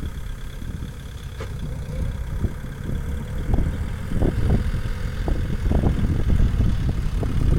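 Kubota farm tractor's diesel engine running, a heavy uneven rumble with irregular knocks and clatter that grow busier about halfway through.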